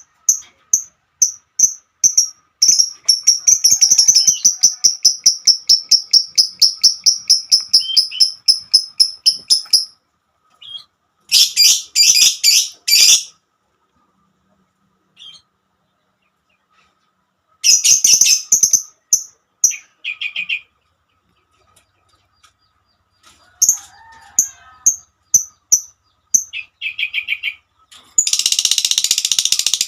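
Lovebird calling: runs of sharp, high-pitched chirps, including one long fast series of about three chirps a second, broken by several bursts of harsh, scratchy chatter.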